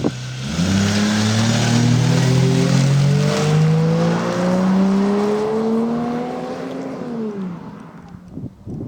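Toyota 1JZ-GE inline-six in a swapped GAZ-3102 Volga, breathing through a Remus exhaust, accelerating hard: the engine note climbs in pitch in steps as it pulls through the gears, then drops and fades as the throttle is lifted near the end.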